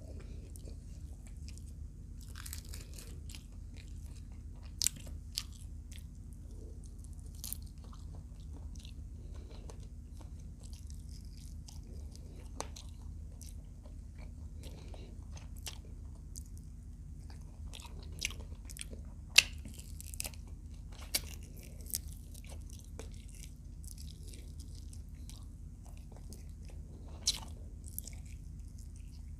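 Close-miked chewing and biting of fried adobo quail, with sharp crisp crunches at irregular intervals; the loudest crunch comes about two-thirds of the way through.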